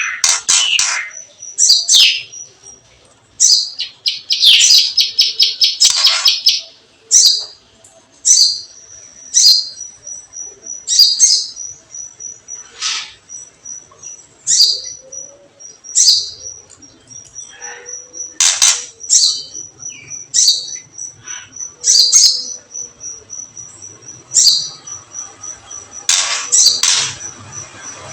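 Songbird lure calls: sharp, high chirps and short rattling trills repeated every second or so, over a steady high ticking at about four ticks a second. These are the crackling calls and whistles used to rouse caged songbirds to sing.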